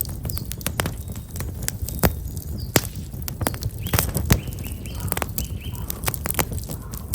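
Black locust wood fire crackling, with irregular sharp pops over a low steady rumble. Small birds chirp briefly, a few short calls about four to six seconds in.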